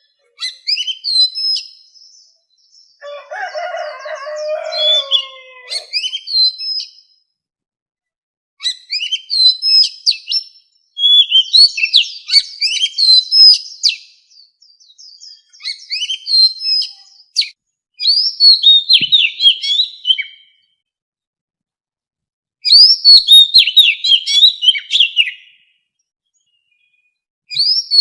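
Oriental magpie-robin singing: a string of short phrases of quick, varied whistles and chirps, each phrase one to three seconds long with brief silent gaps between them. A few seconds in, a lower, rougher call sounds under the song.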